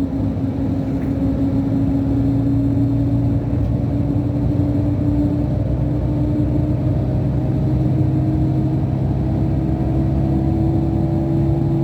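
Scania DC13 inline six-cylinder diesel of a Scania K440 IB coach, heard from inside the coach, pulling steadily in gear. The engine note rises slowly as the coach gathers speed.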